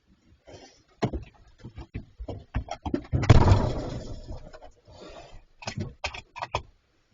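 Bears knocking and scraping at a steel fridge: a string of sharp knocks and clicks, with a longer, louder scrape about three seconds in.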